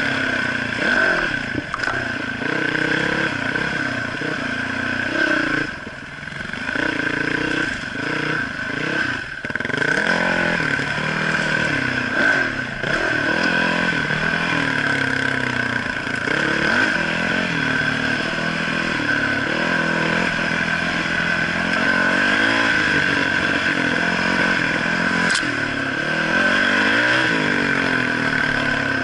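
Trail motorcycle engine running under load, its pitch rising and falling again and again as the throttle is worked over a rough dirt track, with a steady high whine beneath it.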